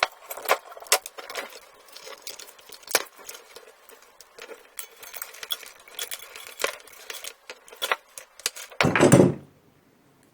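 Small lamp parts being handled: scattered light clicks and metallic clinks with rustling, and a louder handling bump near the end.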